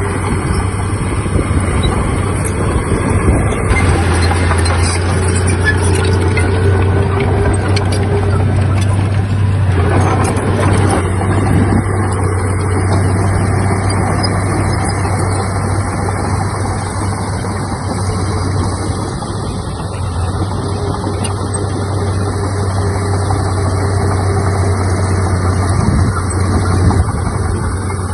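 Heavy diesel earthmoving machinery running steadily: a deep, continuous engine drone that grows a little stronger about four seconds in.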